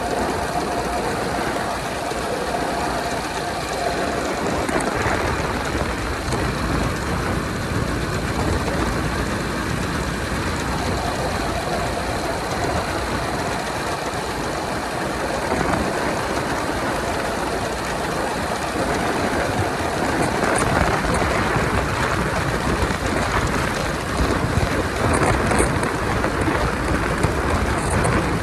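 Honda 125 motorcycle riding at highway speed: the engine running steadily under a constant rush of road and wind noise, growing a little louder in the last third.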